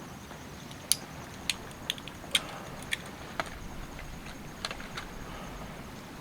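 Sharp, irregular clicks and light knocks, about eight over six seconds, from hands handling and placing campfire-building materials, over a steady background hiss.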